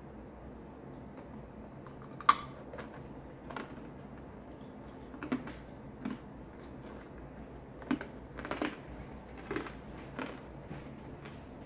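Biting and chewing a candied cherry's hard candy shell: a run of sharp, irregular crunches, the loudest a bite about two seconds in.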